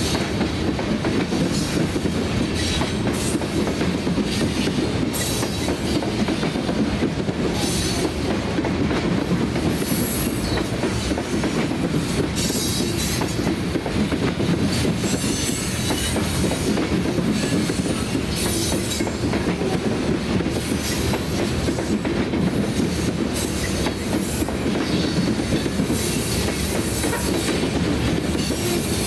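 Freight train of covered hopper cars rolling past at steady speed: a continuous rumble of steel wheels on rail with clickety-clack over the joints, and brief high-pitched wheel squeals every few seconds.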